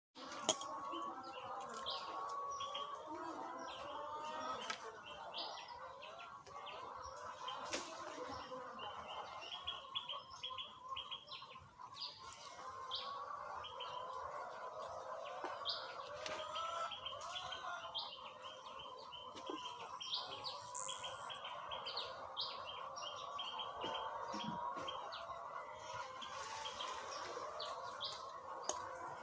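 A chorus of birds calling: many short, high chirps over a continuous wavering chatter, with a faint, steady, thin high tone underneath.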